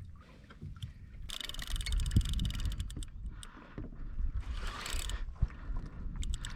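Fishing reel clicking rapidly for a couple of seconds while the angler fights a fish hooked deep, then a short rush of noise a little later, over a low rumble of wind and water.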